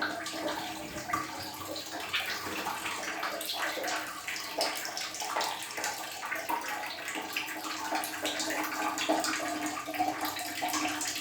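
Water running and splashing steadily in a small tiled bathroom, with a faint steady hum underneath.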